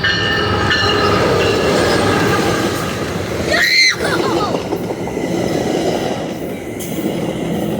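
Train running past on the rails: a loud, steady rumble of wheels on track. Some steady tones fade over the first couple of seconds, and a brief high squeal sounds about three and a half seconds in.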